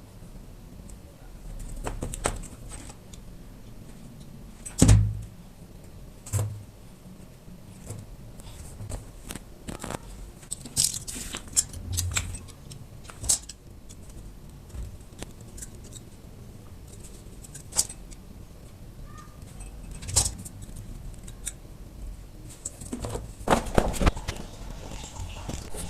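Small aluminium can parts and tools being handled and worked by hand: scattered clicks, taps and light metallic jingles. The loudest knock comes about five seconds in.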